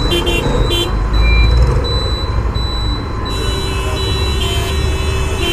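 Steady wind and road rumble while riding a scooter in highway traffic, with two short horn toots near the start and a longer horn held from about three seconds in to the end.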